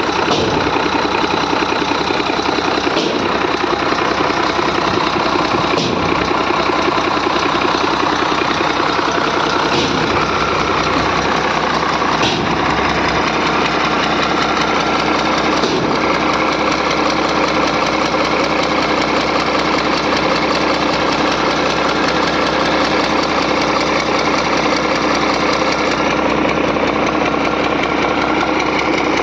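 Six-cylinder engine running steadily just after finally starting, with a few sharp knocks now and then.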